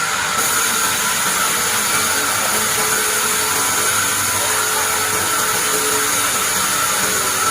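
Band sawmill running steadily as it saws pine, a constant high whine over a hissing noise.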